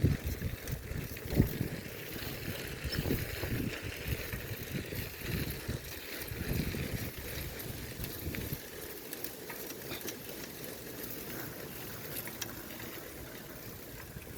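Wind noise buffeting the microphone in uneven low gusts over a steady high outdoor hiss with faint ticks; the gusts die down about halfway through.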